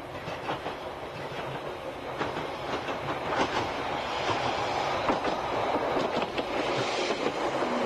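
Single-car diesel railcar approaching and passing close by: engine running and wheels clicking over the rail joints, growing steadily louder.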